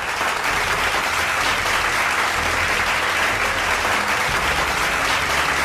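Audience applauding steadily, a continuous even clapping.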